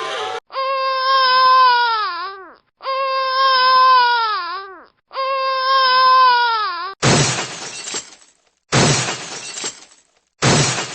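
Sound-effect clips: a pitched, crying wail held steady and then sliding down at the end, played three times identically, followed by three loud noisy shattering crashes.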